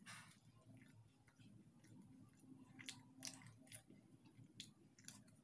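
Faint eating sounds: a person chewing paratha and instant noodles, with a handful of small, sharp mouth clicks scattered through, most of them in the second half.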